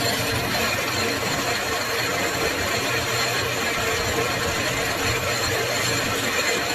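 Metal-turning lathe running: a steady, even machine hum.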